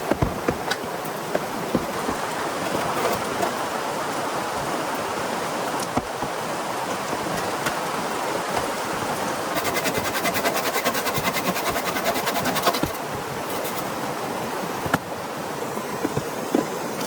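Steady heavy rain falling, an even rushing hiss dotted with the ticks of individual drops. From about ten seconds in to about thirteen, a fast, high-pitched rhythmic pulsing sounds over it.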